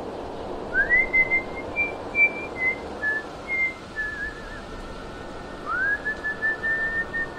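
Someone whistling a slow tune: single notes that swoop up into held tones, with a wavering note about four seconds in and a second upward swoop near six seconds, over a steady rushing noise.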